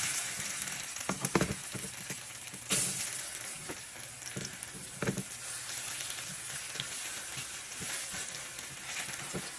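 Egg-coated flattened eggplants frying in hot oil in a nonstick pan, a steady sizzle with scattered crackles and light taps.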